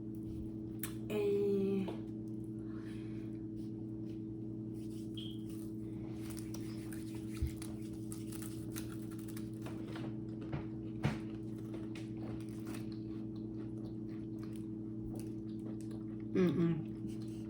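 Steady low hum, with faint scattered crunches of crackers being chewed and a few soft clicks.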